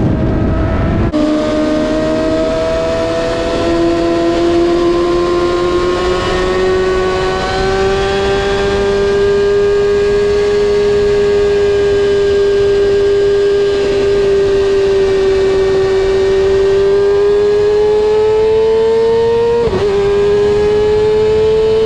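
Sport motorcycle engine running at sustained high revs, its pitch climbing slowly and evenly, with a rushing noise underneath. The tone breaks briefly near the end, then carries on.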